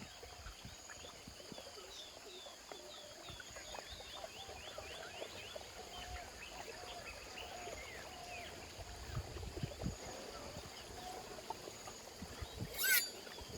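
Outdoor nature ambience: many birds chirping in quick, short calls over a steady high-pitched whine. A single sharp rising call stands out near the end.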